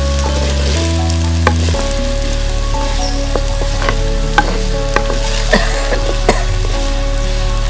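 Food sizzling as it fries in an earthenware pot while being stirred with a wooden spatula, with scattered sharp taps and scrapes of the spatula against the pot.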